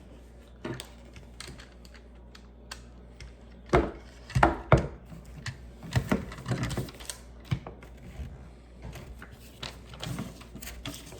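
Plastic Lego pieces clicking and knocking as they are handled and pressed together, in irregular bursts of sharp clicks, loudest about four to five seconds in.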